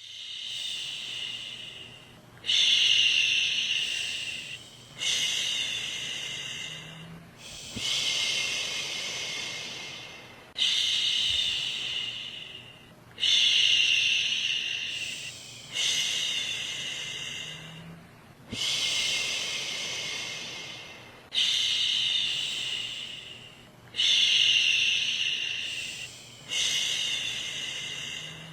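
A woman shushing a baby to soothe it to sleep: a long 'shhh' repeated about every two and a half seconds. Each one starts strong and fades away before the next begins.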